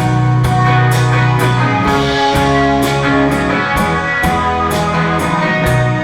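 Live indie rock band playing: electric guitars and bass over drums keeping a steady beat, with hits about twice a second.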